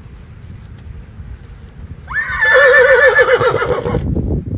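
A horse neighing once, about halfway in: a call of about two seconds that starts high and drops into a quavering, wavering tone.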